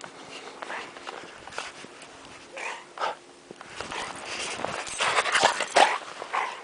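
A dog making a string of short, irregular noises, loudest about five to six seconds in.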